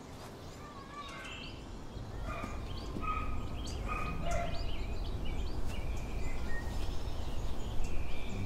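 Birds chirping in short, clipped calls over a low rumble that grows louder from about two seconds in.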